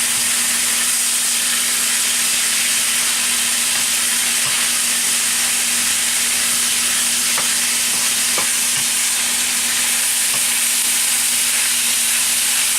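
Chicken, green beans and peppers sizzling steadily in hot oil in a wok on high heat, with a few light clicks as the food is stirred.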